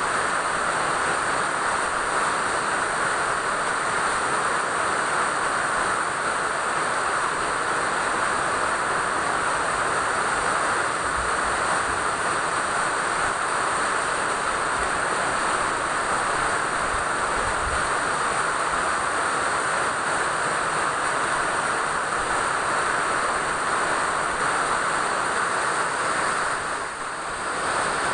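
Steady rainfall, an even hiss of rain with no single drops standing out, dipping slightly for a moment near the end.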